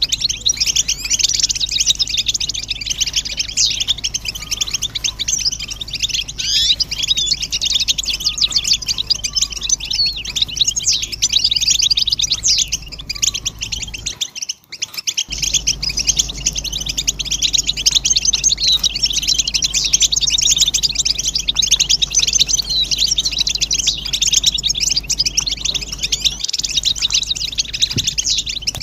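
A flock of European goldfinches chattering together in dense, rapid, overlapping twittering calls: the excited group chatter of mating and readiness calls. The chatter stops briefly about halfway through, then resumes.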